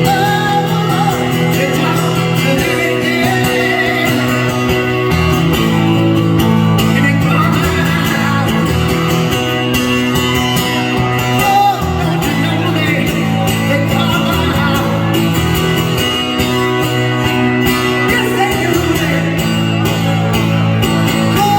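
Live rock band playing, with guitars prominent and a voice singing over a steady, full low end.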